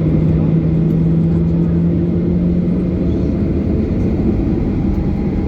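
Cabin noise of a Boeing 737-800 with its CFM56-7B turbofan engines running: a loud, steady rumble with a low hum that rises slightly in pitch and fades about three seconds in.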